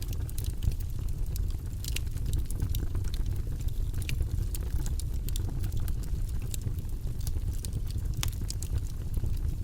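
Campfire crackling: irregular sharp pops and snaps over a steady low rumble, the clearest pops about two seconds in, about four seconds in and just after eight seconds.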